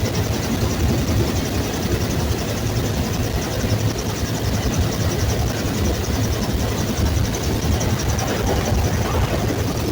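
Bell UH-1 Huey helicopter running steadily in flight: a loud, constant turbine-and-rotor drone with a deep hum and a fast, even pulsing in the hiss above it.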